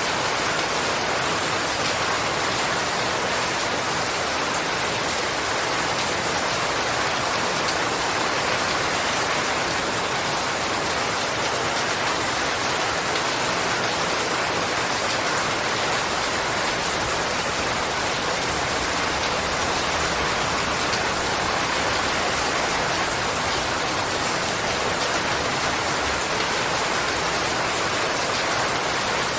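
Steady, heavy rain falling, an even dense hiss of drops with no change in strength.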